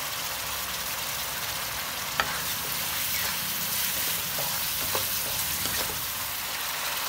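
A yellow paste sizzles in a nonstick wok while a wooden spatula stirs and scrapes it, with a steady hiss throughout. The spatula gives one sharp knock against the pan about two seconds in, and a few lighter taps follow.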